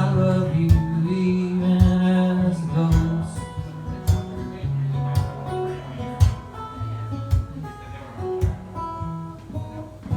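Live acoustic guitar music: the instrumental close of a song, strummed chords and held notes over a steady beat, with no singing.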